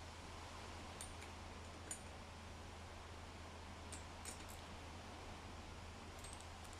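A few faint, sharp clicks of tools and small parts being handled during scooter engine reassembly, over a steady low hum.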